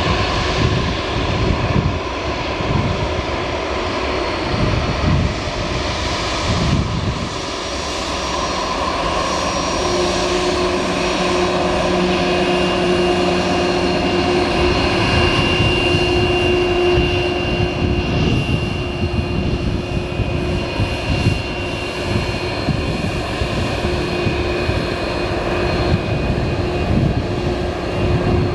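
Boeing 767-424ER's twin GE CF6-80C2 turbofans running loud and steady, with whining tones that hold and shift in pitch over the rumble.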